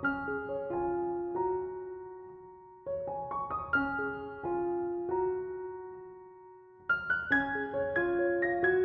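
Background piano music: short phrases of a few struck notes, each left to ring and fade, with a new phrase beginning about three seconds in and another about seven seconds in.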